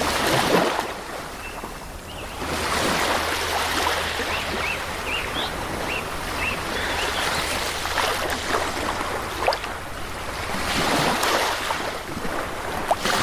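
Waves washing onto a beach, the surf swelling and falling, with a run of short, high bird chirps a few seconds in.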